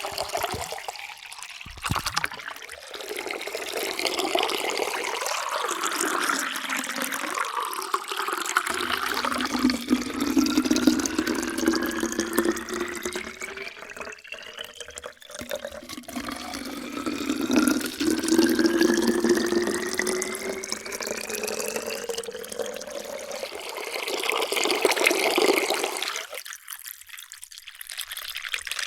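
Water poured in a stream into a drinking vessel, splashing, with the pitch of the vessel's resonance rising steadily as it fills. Two such fills, the first ending about halfway through, the second stopping a few seconds before the end.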